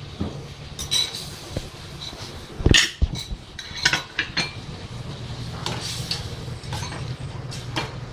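Metal utensils clinking and scraping against cookware in irregular knocks, the loudest about two and a half seconds in, over a steady low hum.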